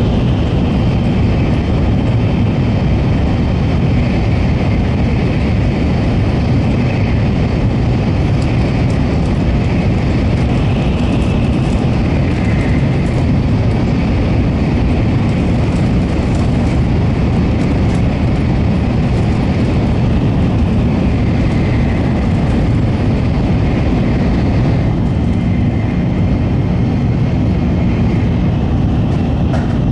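Running noise of an N700-series Tokaido Shinkansen train at speed, heard on board. It is a steady, loud low rumble with a faint high whine that wavers slightly.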